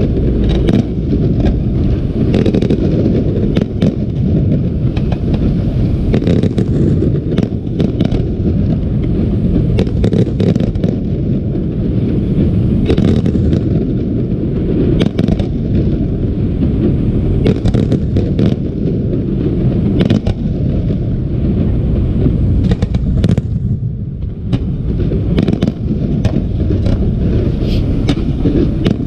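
Fireworks display: a continuous barrage of shell bursts, many sharp cracks over a dense low rumble, easing briefly a little past two-thirds of the way through.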